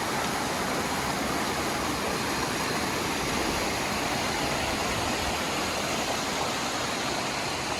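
Steady rush of waterfall water cascading over rock, an even hiss and roar that does not change.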